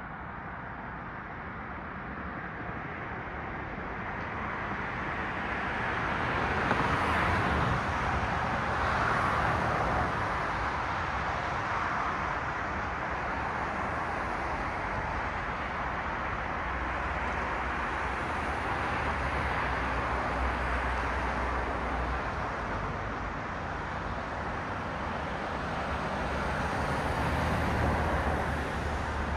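Cars passing on a city road: steady tyre hiss with a low engine rumble that swells as vehicles go by, loudest about seven and ten seconds in and again near the end.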